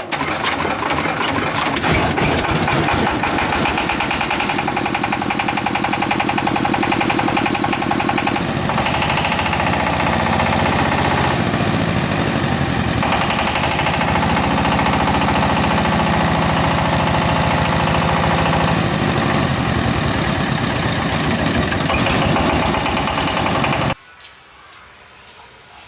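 The engine of a repaired rice threshing machine running steadily and loudly, its pitch shifting a few times. It cuts off abruptly near the end.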